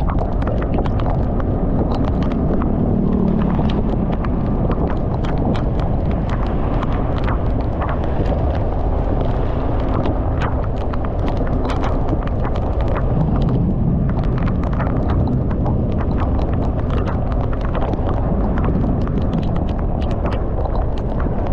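Heavy rain on a moving motorcycle: raindrops hit the camera in rapid, irregular taps over a steady low rumble of wind and engine.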